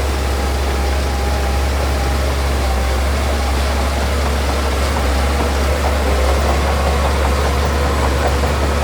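Heavy diesel engine of earthmoving machinery running steadily with a deep low rumble, with faint rapid ticking entering from about six seconds in.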